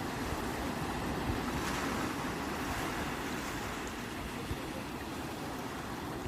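Ocean waves washing on the shore in a steady surf hiss, swelling slightly about one to two seconds in, with some wind on the microphone.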